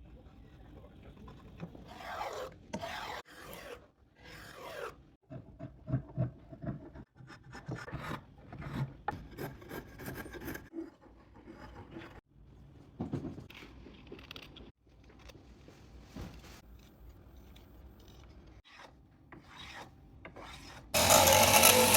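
Wooden parts being filed and rubbed by hand: a series of short rasping, scraping passages. About a second before the end, a loud power tool starts abruptly.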